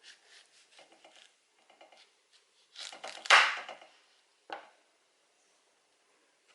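A utensil scraping and cutting into the flesh of a halved canary melon. There is a run of soft scrapes, then one louder scrape about three seconds in and a short one a little later.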